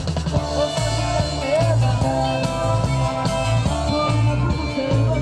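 Rock band playing live: guitar, bass and a drum beat, with a melody line that wavers in pitch.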